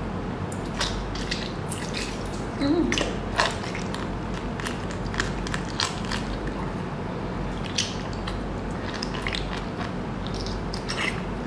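Close-up eating sounds: someone biting and chewing a soft, slippery stuffed food, with many irregular wet mouth clicks and smacks. There is a short low murmur about three seconds in, and a steady low hum underneath.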